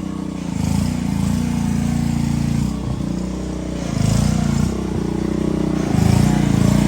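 An engine running steadily, its sound swelling a few times, with short bursts of hissing about a second in, around four seconds and around six seconds.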